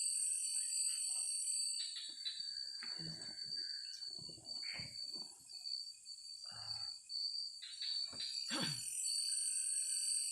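Forest insects chirring in a steady, high, even drone. Several short knocks and rustles break in between about three and five seconds in, and again around eight seconds.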